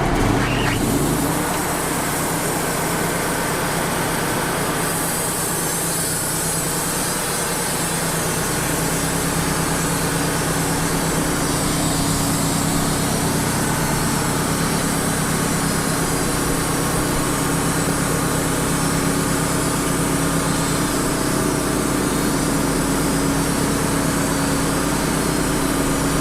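Wood-Mizer LT35 hydraulic portable sawmill running steadily with its engine humming. About five seconds in, a higher hiss joins as the band blade saws a thin slab off the top of the red oak log.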